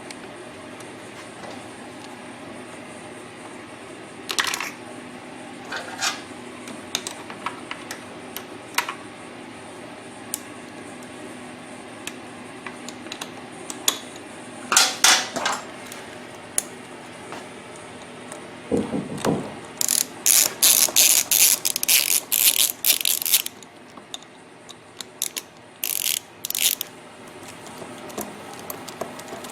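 Metal tools and screws clicking and tapping at scattered moments, then a hand ratchet clicking in quick runs for a few seconds past the middle, with a few more clicks near the end, as the valve cover screws are started into the cylinder head.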